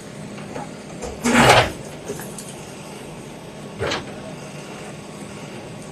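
Earthmover demolishing a house: its engine runs steadily under a loud half-second crash of breaking masonry a little over a second in and a shorter knock near four seconds.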